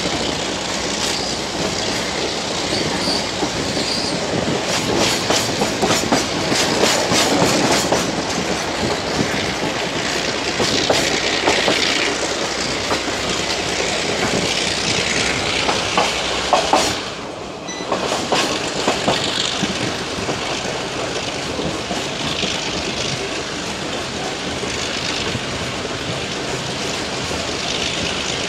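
A train running on metre-gauge track, heard from on board: a steady rushing noise of wheels and wind, with runs of rapid clicks as the wheels pass over rail joints. It goes briefly quieter about two-thirds of the way in.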